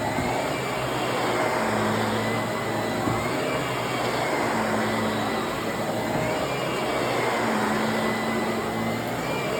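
Vacuum cleaner running steadily, with a high whine over a rushing hum. Its note swells and eases in a repeating cycle about every three seconds.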